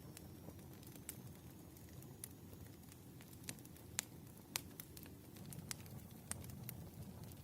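Wood fire burning, crackling: a low steady rumble with irregular sharp pops, the loudest about four seconds in.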